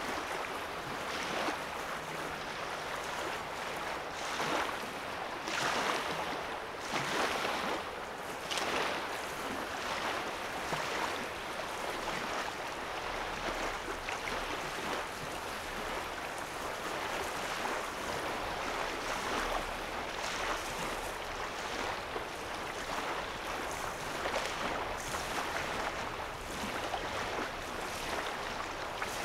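Small lake waves lapping on a sandy shoreline, a gentle wash that swells and falls every second or two, more marked in the first nine seconds or so.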